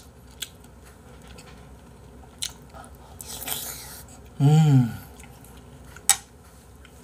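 Close-up mouth sounds of a man eating spoonfuls of jjamppong-bap, chewing. A metal spoon gives a few sharp clicks against the bowl, and a short hummed "mm" comes about four and a half seconds in.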